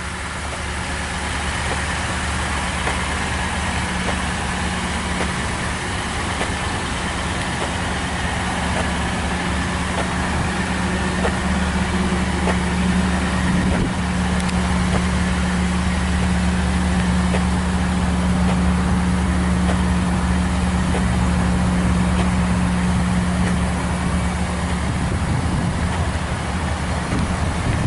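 2013 Toyota Tundra pickup's engine idling steadily, a constant low hum.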